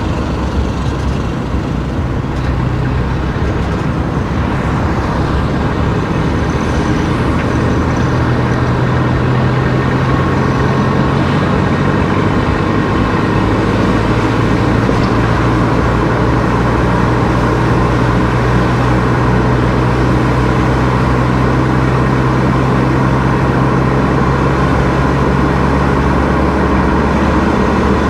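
A car driving at steady speed: a constant low engine drone with tyre and road noise, the drone's pitch shifting slightly about a third of the way in and again near the end.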